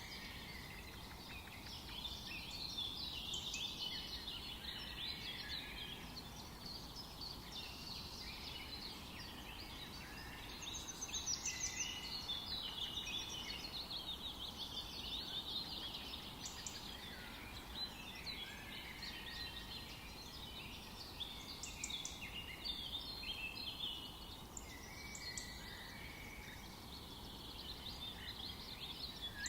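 Many songbirds singing and chirping at once in a forest dawn-chorus style, with overlapping quick trills and chirps, over a faint low background hum.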